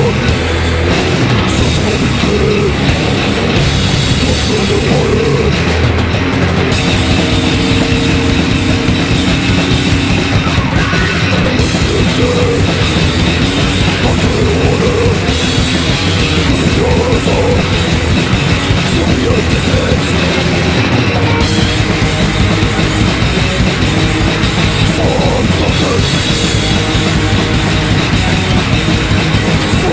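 Live heavy metal band playing loud and without a break: distorted guitars, bass and drums.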